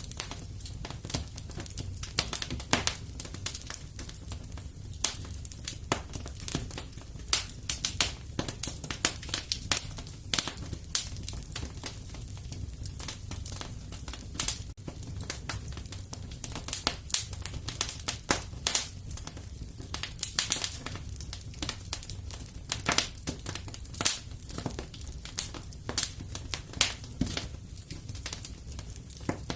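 Wood fire crackling in a fireplace: irregular snaps and pops of burning wood, a few louder than the rest, over a low steady rumble.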